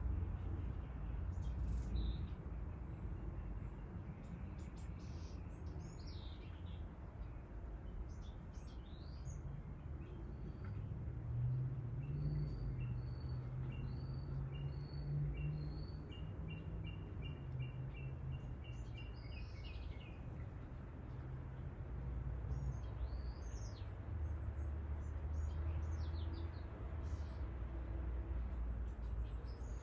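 Small birds chirping and calling: scattered short, high chirps throughout, with a run of quick repeated notes, about three a second, in the middle. A low steady rumble lies underneath.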